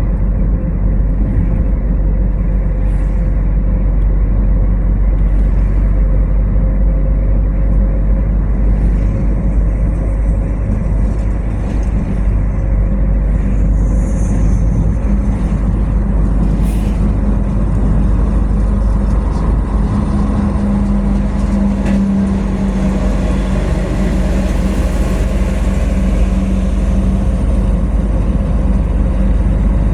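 Steady car road noise: a continuous low rumble of engine and tyres from a car driving, with a hum that grows a little stronger about two-thirds of the way through.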